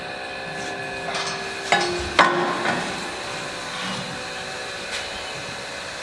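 Two sharp metal clanks about half a second apart, each ringing briefly, as a bent section of steel exhaust pipe is offered up for a test fit, over a steady shop hum.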